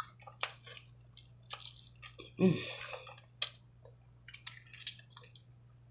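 Close-up eating sounds of someone chewing sauce-coated oxtail meat: wet lip smacks and sharp mouth clicks, scattered irregularly. A short hum of the voice comes about two and a half seconds in.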